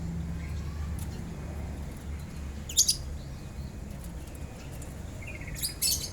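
Lovebirds giving short, shrill chirps: two brief calls about three seconds apart, one near the middle and one near the end.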